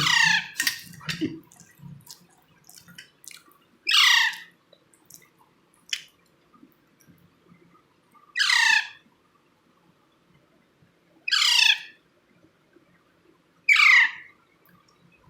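Indian ringneck parakeet chick giving short squawking calls that fall in pitch, five of them a few seconds apart, with a few clicks in the first seconds.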